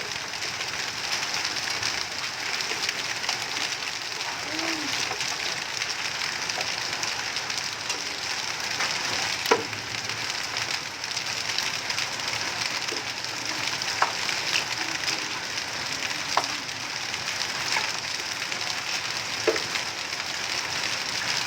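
Heavy rain falling in a hailstorm: a steady hiss, with a few sharp single cracks of hailstones striking scattered through it.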